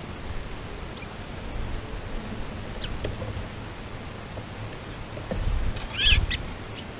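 Small birds squabbling: a few faint high chirps, then a louder squeaky call with a low thump about six seconds in.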